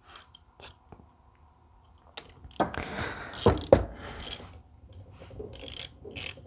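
Workshop handling noise on a bench: a few light clicks, then rustling and clatter of tools or metal parts with two dull thuds about three and a half seconds in.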